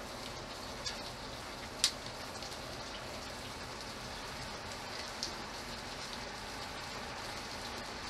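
Steady rain falling, with a few sharp, close drop hits standing out, the loudest about two seconds in.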